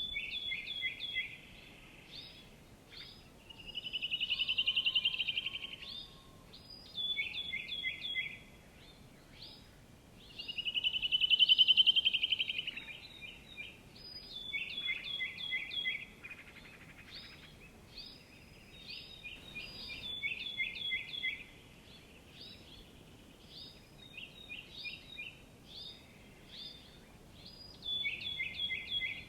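Small songbirds singing: repeated quick series of high chirps, with two longer buzzy trills about four and eleven seconds in, the second the loudest.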